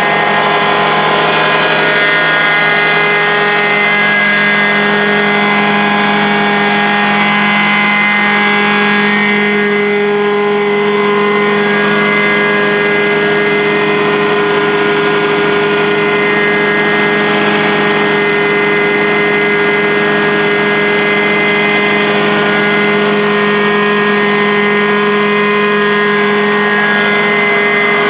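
Truck-mounted carpet-cleaning extractor running steadily, its engine and vacuum blower making a loud, even drone. The pitch shifts slightly about four seconds in and again around nine seconds.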